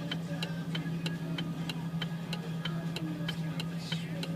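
A car's hazard-light flasher ticking steadily, about three clicks a second, over a steady low hum.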